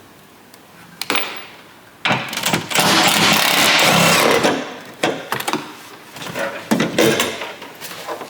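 A handheld power tool runs for about two and a half seconds, followed by scattered clicks and knocks of tools on metal and plastic parts.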